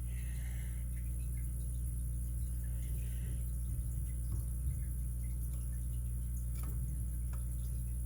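Steady low electrical hum, with a few faint small clicks of metal lock pins and tools being handled as a spool pin is taken out of a padlock core.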